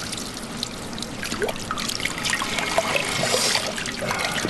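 Water running from a tap into a sink, trickling and splashing.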